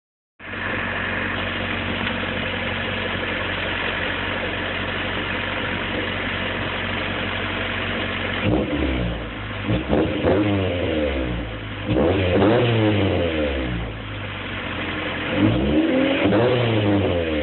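Honda CRX four-cylinder engine heard through its exhaust, idling steadily, then blipped up and back down about four times in the second half.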